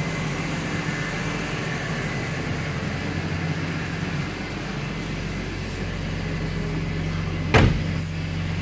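2004 BMW M3's 3.2-litre straight-six with a Borla exhaust idling steadily. Near the end, one sharp thump as the car's door is shut.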